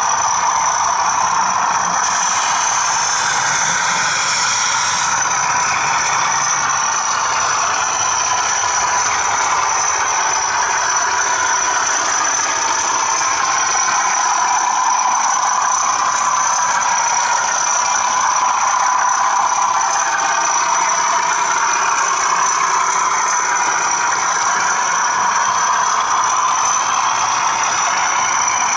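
Bachmann class 37 model diesel locomotive's ESU sound decoder playing the class 37 engine sound through the loco's small speaker, with a rattle from the model wheels on the track and a steady high whine. A brief hiss comes about two seconds in.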